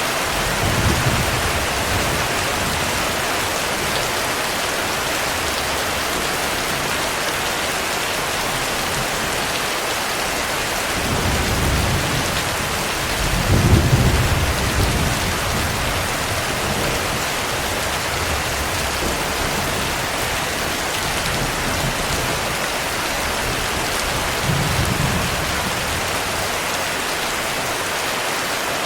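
Steady heavy rain with low rolls of thunder: a short one about a second in, a longer, loudest roll around the middle, and a fainter one near the end.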